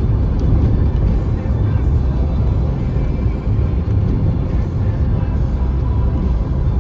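Steady low road rumble of a moving car heard from inside the cabin, with music playing over it.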